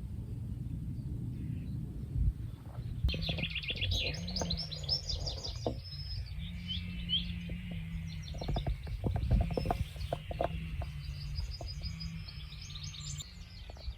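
Songbirds singing rapid, high-pitched trilled phrases, starting about three seconds in and again near the end, over a low rumble. A cluster of clicks and knocks comes in the middle.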